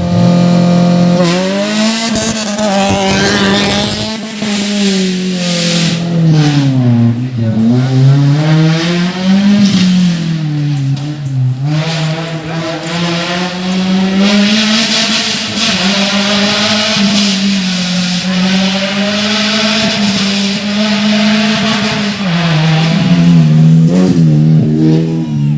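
Off-road race car engine revving hard, its pitch swinging up and down as it accelerates and backs off, with a hiss over it through the middle stretch.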